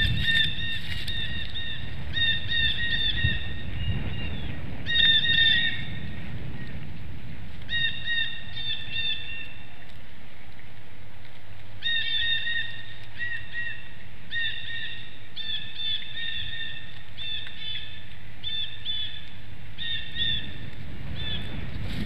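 Small bird calls: clusters of short, repeated call notes, pausing for a couple of seconds about halfway through, over a low wind rumble on the microphone at the start and again near the end.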